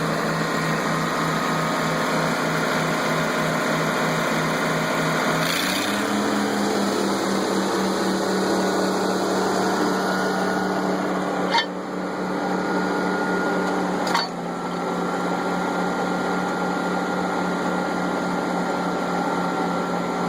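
Allis-Chalmers 190 tractor's six-cylinder gasoline engine running steadily. Its speed steps up a little about five and a half seconds in, and two brief clicks come a few seconds apart in the second half.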